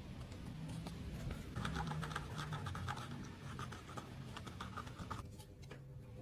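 Irregular scratching and scraping with small clicks, busiest in the middle and quieter near the end.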